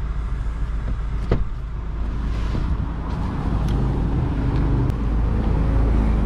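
Volkswagen Golf GTI Clubsport's turbocharged 2.0-litre four-cylinder idling steadily, with a sharp click about a second in. The idle grows a little louder in the second half.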